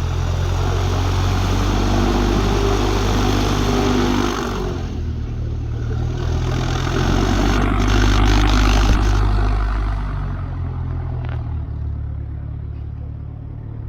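Light propeller aircraft's piston engine running steadily as the plane moves off, growing louder about eight seconds in and then fading away.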